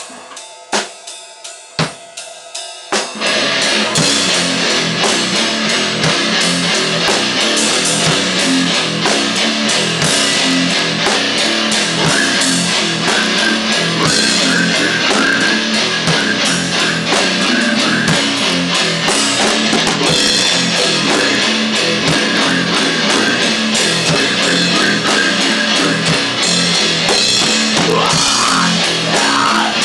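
Live grindcore band: a few separate drum hits, then about three seconds in the full band comes in with distorted guitar and fast drumming in a dense, continuous wall of noise.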